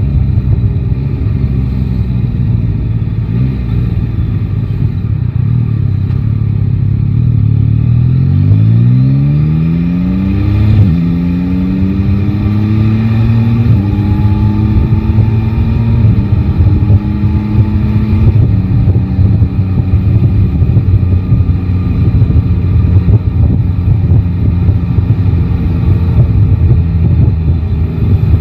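Yamaha Tracer 9 GT's three-cylinder engine, low and steady at first. About eight seconds in it accelerates up through the gears, its pitch climbing and falling back at each of about four upshifts, then it runs steadily at cruising speed.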